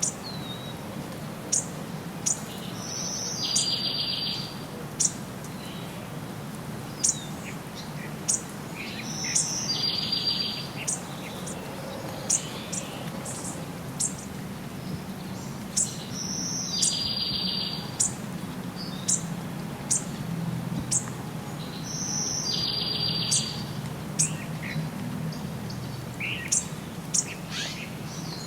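Birds singing: sharp, high chirps scattered throughout, and a short trilled phrase that repeats about every six or seven seconds, over a steady low rumble.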